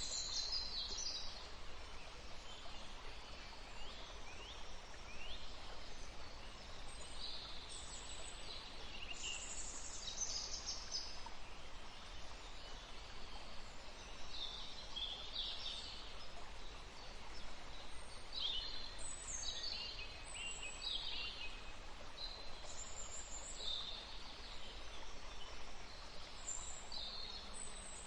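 Several wild songbirds chirping and calling, short high notes coming in scattered clusters, a few sliding in pitch, over a steady outdoor background hiss.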